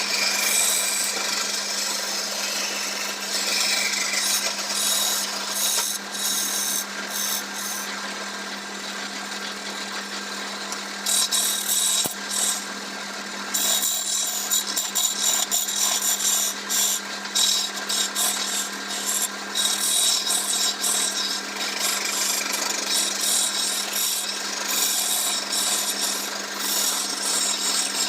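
Wood lathe running with a steady motor hum while a turning tool cuts and scrapes black teak (kyun-net) spinning on it, in uneven passes that ease off for a few seconds in the middle before cutting hard again.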